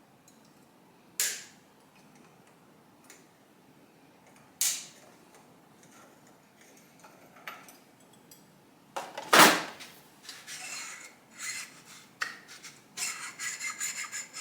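Hand tools and metal parts being handled during workshop assembly. A few sharp clicks, then a loud metallic clank about nine seconds in, followed by rattling and a quick run of ticks near the end.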